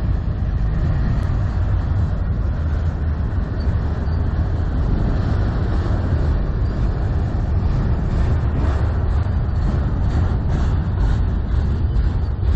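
CN freight train cars, auto racks among them, rolling past with a steady rumble of wheels on rail. Heavy wind buffeting the microphone is mixed in.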